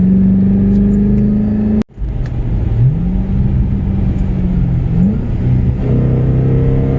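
Car engine running while driving, holding a steady pitch, then cutting out abruptly for a moment just under two seconds in. When it comes back the engine revs up twice, its pitch rising each time, then settles at a lower steady note.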